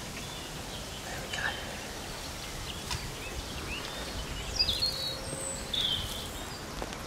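Wild birds chirping and calling in short, scattered phrases over steady outdoor background noise, busiest in the second half.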